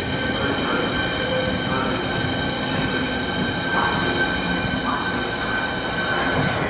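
Southeastern electric multiple unit moving slowly along a curved platform, its wheels giving a steady high-pitched squeal of several tones over the rumble of the running gear.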